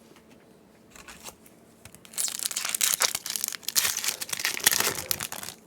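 Foil wrapper of a Yu-Gi-Oh booster pack crinkling as it is handled and pulled open, starting about two seconds in after a few light clicks, with a dense, crackly sound that stops just before the end.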